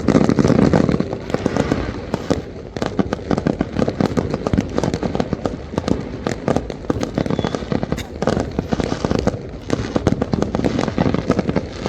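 A fireworks display: a dense, continuous barrage of bangs, pops and crackles from aerial shells bursting close together, without a break.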